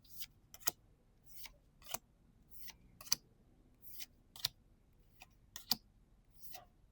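Pokémon trading cards being slid off a stack one at a time: a soft swish and then a crisp click, repeating about every second and a half.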